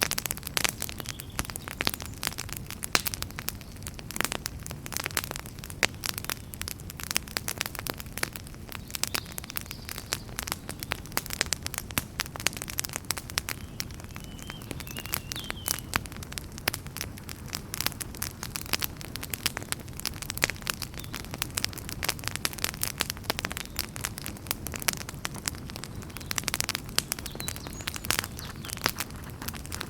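Wood fire burning in a fireplace, crackling with frequent sharp pops and snaps over a low steady rumble of the flames.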